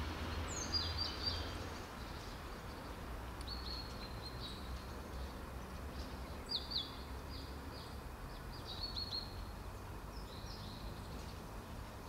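Small birds chirping in short, quick phrases every couple of seconds, over a steady low outdoor rumble.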